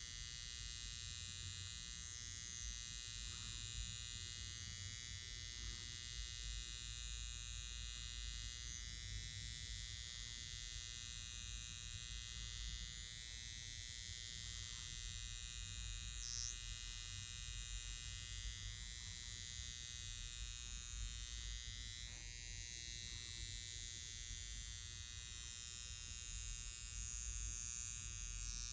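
High-frequency facial machine buzzing steadily with a high-pitched whine over a low hum, its glass electrode in use on the skin.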